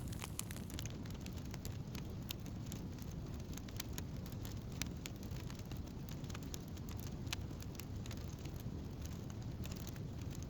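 Wood campfire burning: a steady low rumble of flames with many small, sharp crackles and pops.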